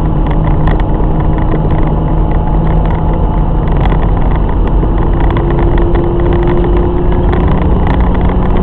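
BMW E30's M50B20 two-litre inline-six engine running steadily under way, with road noise, heard from inside the car. Its drone rises slightly in pitch about five seconds in.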